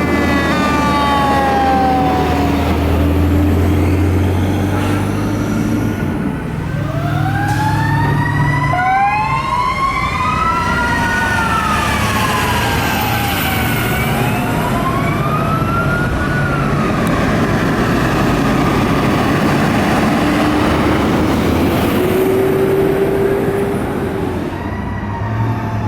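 Fire truck sirens wailing, several overlapping rising and falling sweeps, over the running of heavy trucks. A deep steady drone sounds for the first six seconds, then fades.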